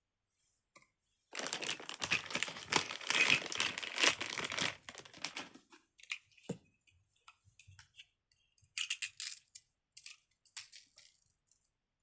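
Plastic wrapping crinkling and tearing as a small toy is unwrapped by hand: a long crackly stretch a second or so in, then small clicks and two shorter bursts of crinkling near the end.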